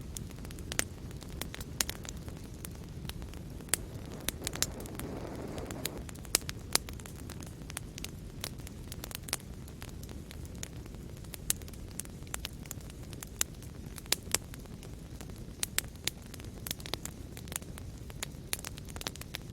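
Wood fire in a fireplace crackling, with frequent irregular sharp pops over a steady low rumble of flames. A soft hiss swells briefly about five seconds in.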